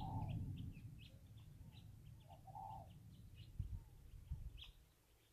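Birds calling: a quick series of short high chirps, with a few lower calls near the start and about two and a half seconds in. A faint low rumble under them dies away in the first second or so.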